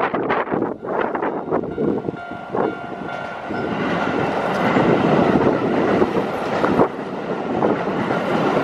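Keio Line electric train passing over the level crossing: wheels clacking over the rail joints in the first few seconds, then a steady rush of the cars running by.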